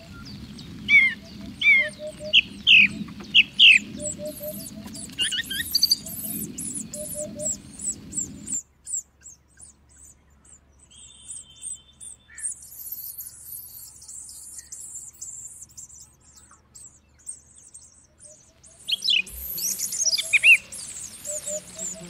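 Several wild birds chirping and calling: loud, sharp, quickly rising and falling chirps in a cluster in the first few seconds and again near the end, with fainter high twittering between. A low background rumble cuts off suddenly about eight seconds in.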